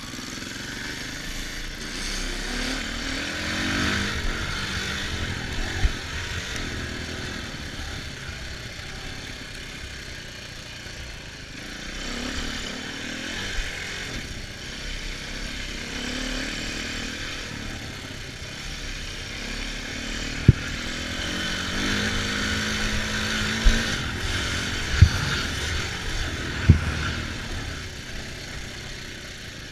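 Dirt bike engine being ridden, its note rising and falling again and again as the throttle opens and closes. A few sharp knocks stand out, mostly in the second half.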